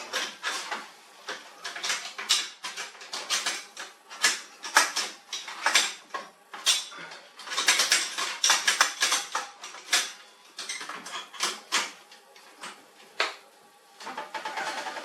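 Irregular sharp clicks and clatter of hard parts being handled during laser printer disassembly, many small knocks scattered throughout with brief pauses.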